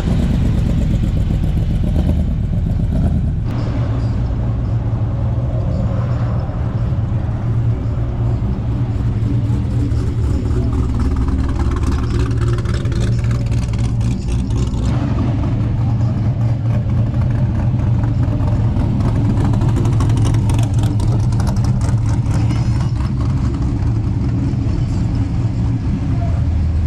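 Car engine running steadily, a low, even rumble that holds throughout with little change in pitch.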